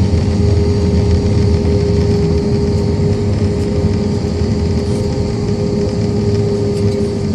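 Airbus A320-232's IAE V2500 jet engines running, a steady loud rumble with a constant droning tone held through.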